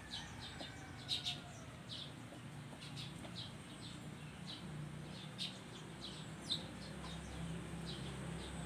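Small birds chirping in the background: short high chirps repeated irregularly, over a low steady hum.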